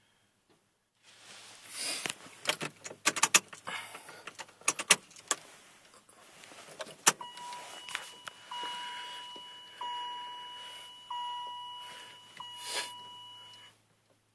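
Keys jangling and sharp clicks, then the truck cab's warning chime ringing about five times, one tone roughly every second and a quarter, each struck sharply and fading.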